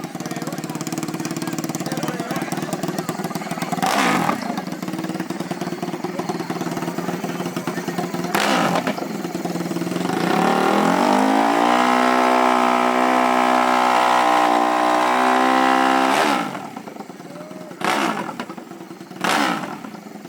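Off-road racing engine running, then revving up about halfway through and held at high revs for about four seconds before the throttle is shut off. Two short throttle blips follow near the end.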